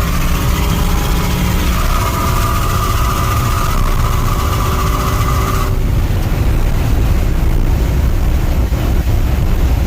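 Ford F-150's bolt-on modified 5.0 V8 with headers running steadily with a low rumble. A little over halfway through, the higher tones above it cut off abruptly while the rumble carries on.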